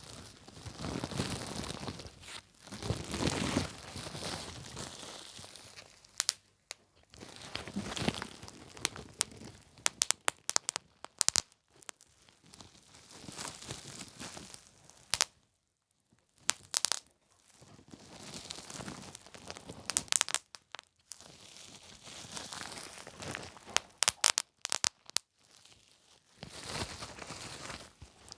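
Plastic bubble wrap being crinkled and squeezed, with sharp pops of bursting bubbles coming in clusters every few seconds.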